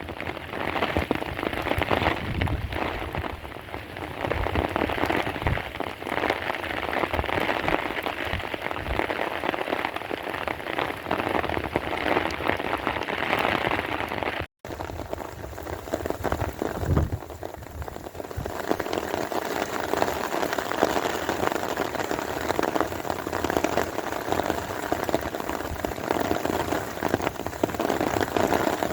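Heavy rain falling, a dense steady patter of drops. About halfway it drops out for an instant and resumes with a slightly different tone, where one recording is cut to the next.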